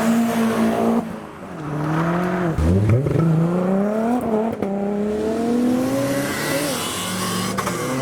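A car engine accelerating hard, its pitch climbing in each gear and dropping sharply at each upshift, about three times.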